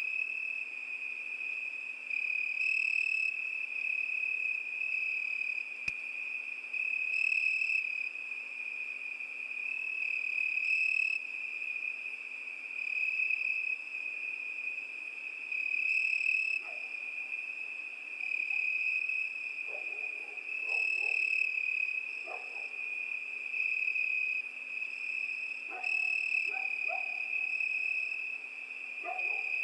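Crickets singing: one continuous high-pitched trill at a steady pitch, swelling and easing in loudness about every four seconds. Faint, short, lower-pitched calls come in over it in the second half.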